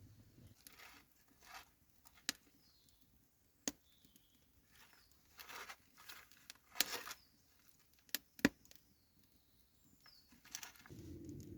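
Wood campfire crackling, with a few sharp pops and short hissing crackles between quieter stretches. A steady low rush comes in near the end.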